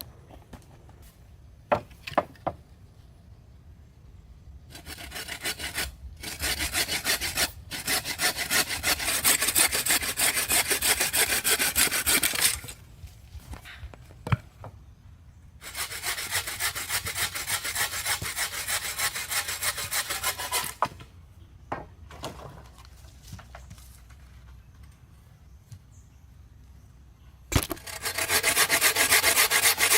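Hand saw cutting through wood in three long bouts of rapid back-and-forth strokes, with a few sharp knocks in the pauses between them.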